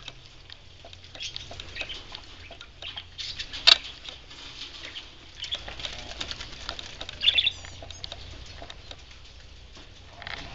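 Sun conure bathing in a shallow dish of water, flapping its wings and splashing in a run of small uneven patters, with one sharper splash a few seconds in. Short high bird chirps come near the end.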